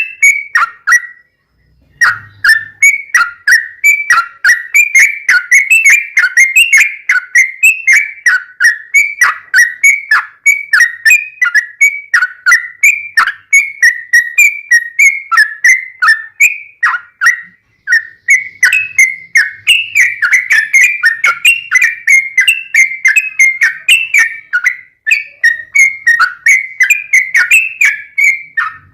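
Yellow-vented bulbul (trucuk) singing a fast, rolling song of short whistled notes, several a second, broken only by a short pause about a second in.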